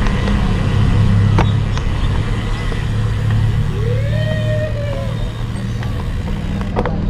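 A motor vehicle's steady low engine rumble, with a few sharp clicks and a brief tone that rises and then holds about four seconds in.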